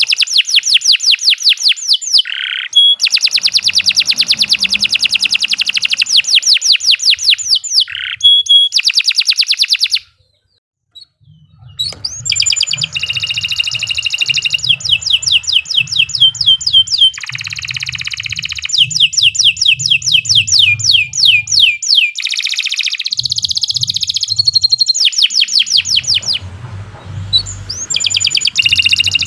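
Domestic canary singing a long, fast trilling song of rapid runs of repeated notes. It breaks off briefly about a third of the way through, then goes on.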